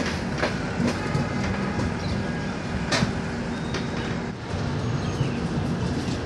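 Passenger train running on the track: a steady rumble with a few sharp clacks of the wheels over rail joints, the loudest about three seconds in.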